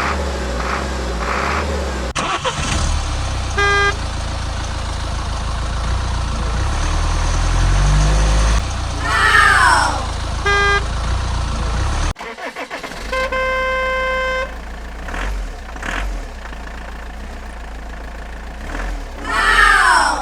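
Vehicle sound effects: a steady low engine rumble with short horn beeps, a longer horn honk about two-thirds of the way through, and a loud falling whine that comes twice, about ten seconds apart.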